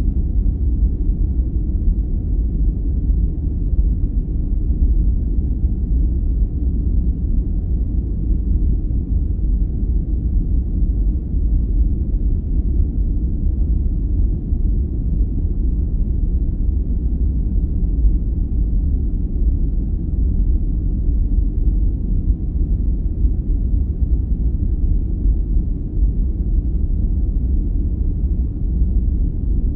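Sleep-aid noise track: a steady, deep noise with most of its weight in the bass and little treble, unchanging throughout.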